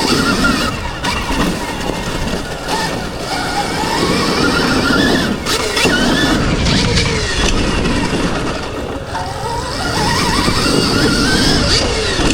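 2024 Stark Varg electric motocross bike's motor whining, its pitch climbing steeply twice, about three seconds in and again past eight seconds, as the bike accelerates. Under it runs a constant rush of wind and knobby tyres on dirt.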